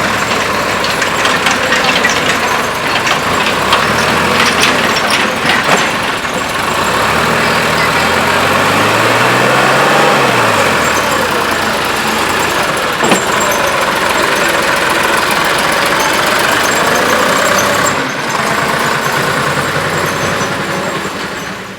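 Heavy diesel machinery engine running, its note rising and falling once about halfway through, with scattered metallic knocks early on and one sharp knock later.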